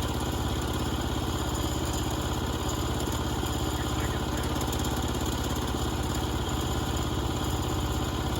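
The portable band sawmill's small gasoline engine idles steadily, with no load on the blade.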